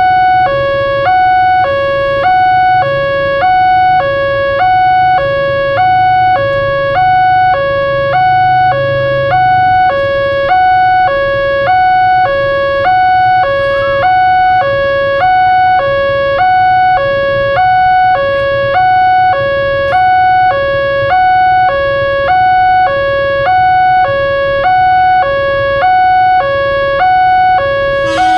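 Indonesian railroad crossing warning alarm sounding continuously: an electronic two-tone signal alternating high and low about once a second, warning that a train is approaching. A low rumble runs underneath.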